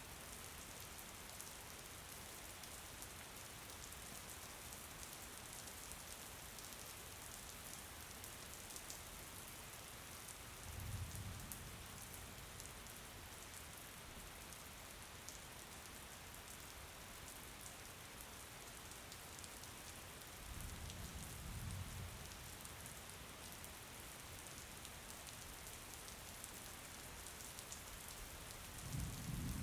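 Steady rain hissing with fine pattering drops. A short low rumble comes three times, about ten seconds apart.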